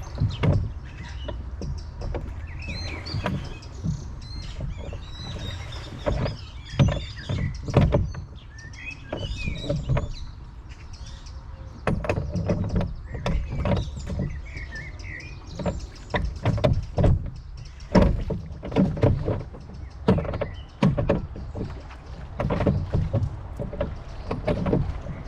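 A rowing boat under way: irregular knocks and splashes from the oars, with a steady low rumble underneath. Birds chirp, mostly in the first half.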